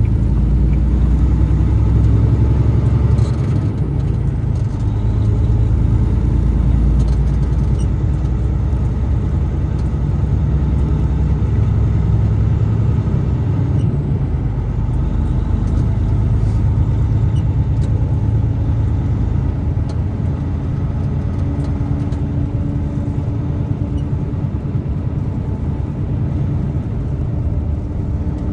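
Steady low rumble of the truck's engine and tyres heard from inside the cab while driving.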